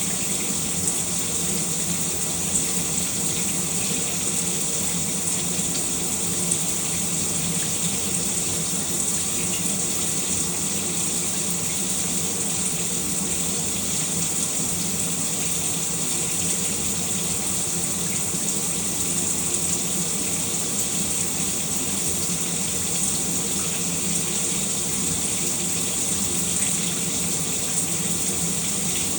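Shower running: water spraying steadily from the shower head and splashing down.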